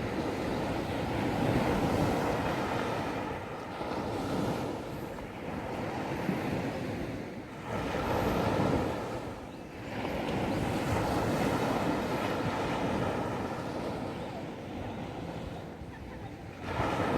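Calm sea waves breaking and washing up a beach, swelling and easing every few seconds, with wind buffeting the microphone.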